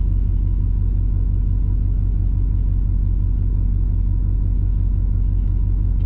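Vehicle engine idling with a steady low rumble, heard from inside the parked truck's cab.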